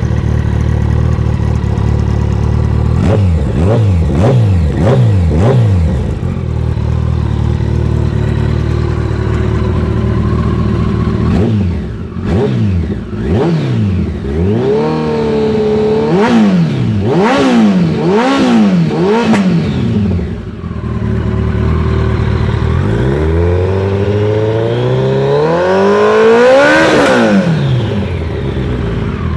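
2014 Kawasaki ZX-14's inline-four, warmed up, revved in place through a Coffman's shorty exhaust with the cat and baffles left in. It idles, gives a burst of quick blips about three seconds in, a run of revs through the middle, then one long rev rising and falling near the end before dropping back to idle.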